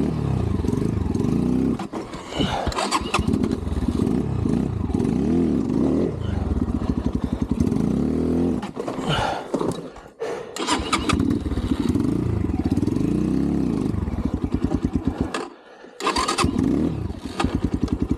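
Xpro Templar X 250cc dirt bike's single-cylinder four-stroke engine revving up and down under load on a rock climb, dropping out briefly twice. The engine keeps bogging and stalling, which the rider puts down to a carburettor idle screw set too low.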